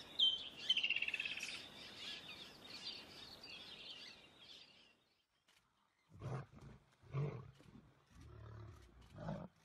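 Birds chirping and calling, with a fast high trill about a second in; this fades out around five seconds in. From about six seconds in come four short, low, throaty sounds a second or so apart.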